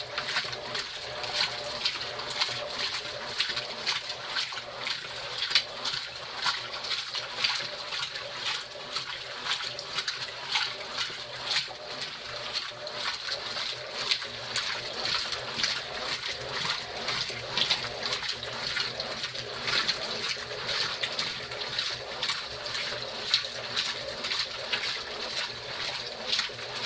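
Top-loading Consul Facilite washing machine agitating a wash load: water sloshing and splashing around wet, heavy quilts and clothes in the drum, in an uneven churning rhythm.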